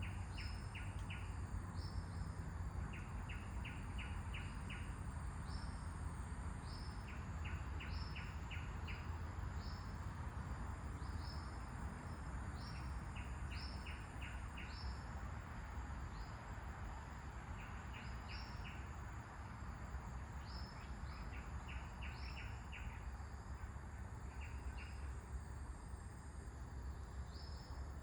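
Birds calling: short high chirps repeated every second or so, with quick runs of four to six notes, over a steady low rumble of wind. A faint, high, steady insect drone comes and goes.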